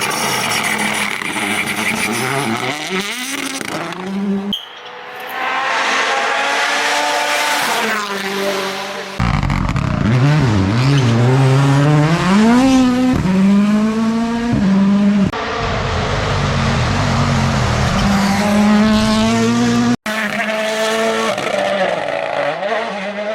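Rally cars revving hard through their gears, heard in several short clips one after another. The engine pitch climbs steeply, then drops sharply at each upshift, and rises and falls as the cars accelerate, brake and pass.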